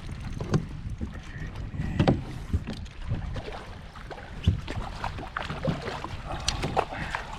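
Irregular knocks and bumps of hands and fishing gear against a kayak while a hooked bass is brought in, over a steady low rumble of wind on the microphone.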